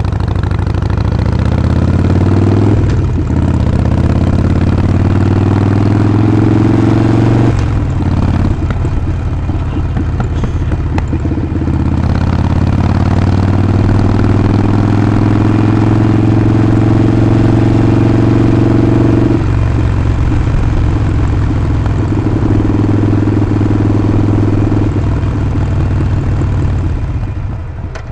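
Harley-Davidson Sportster 48's air-cooled 1200 V-twin running under way, its exhaust note rising through the gears with shifts about three and seven seconds in, then a long steady pull. The throttle eases off and the engine note drops near the end.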